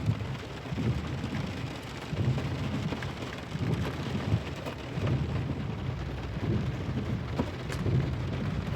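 Rain falling on a Dodge Durango, heard from inside the cab, with scattered ticks over a low rumble from the SUV crawling along a muddy road.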